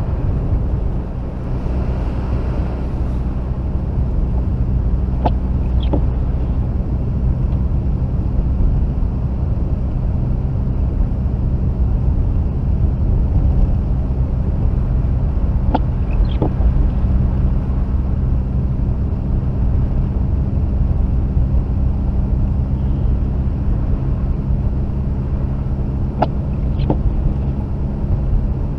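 Mazda RX-8's two-rotor rotary engine and road noise heard inside the cabin, a steady low drone while driving. A pair of short clicks comes about every ten seconds, three times.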